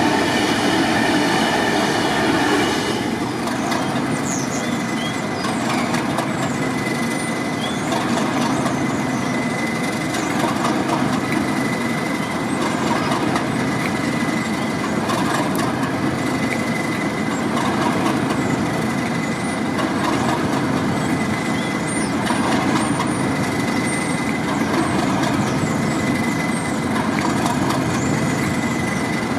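A train running through the station on the rails, a steady rumbling noise that swells and fades every couple of seconds, with scattered brief high squeaks from the wheels.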